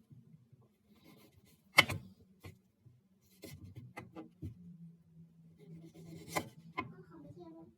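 Scattered sharp knocks and clicks of things being handled, the loudest about two seconds in. A faint steady low hum joins about halfway through.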